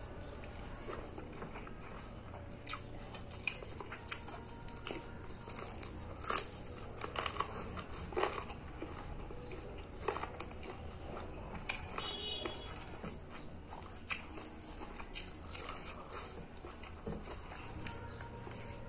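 A man eating boiled chicken and rice by hand: irregular chewing, biting and small crunching clicks, close to the microphone, over a steady low hum.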